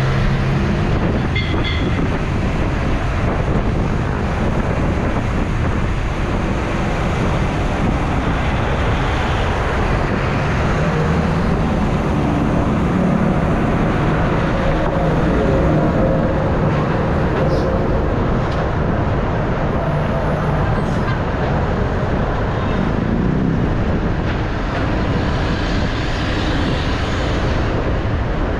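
Steady rush of road traffic noise heard while riding a bike along a road, loud and unbroken.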